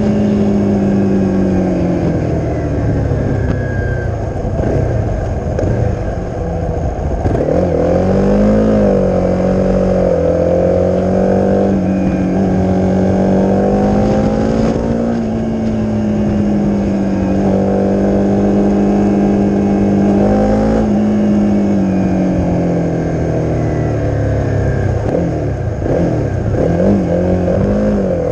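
Single-cylinder four-stroke engine of a Honda CRF250 with a Leo Vince aftermarket exhaust, running under way at a fairly steady pitch, dipping and rising again about a third of the way in and again later, with several quick rises and falls of the revs near the end.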